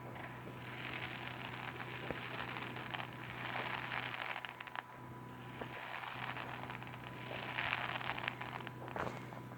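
Fireworks crackling: dense, fast crackle from crackling-star effects, coming in two long waves, the first about a second in and the second near the end.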